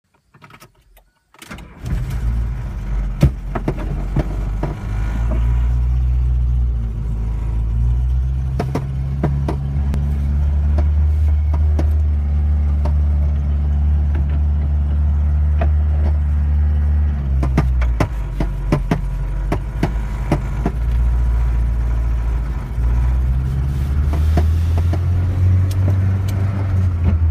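1981 Volkswagen Rabbit pickup's engine running as the truck is driven, starting about two seconds in and holding a steady note that shifts in pitch a few times as the revs change, with scattered clicks and knocks over it. The engine has a slight stutter under throttle.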